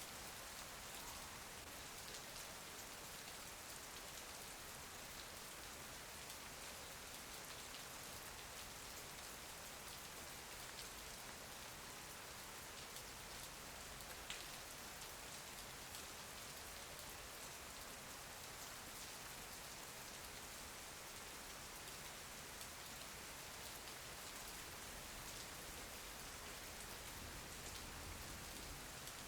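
Steady rain falling, a soft, even hiss with scattered drop ticks and one sharper tick about halfway through.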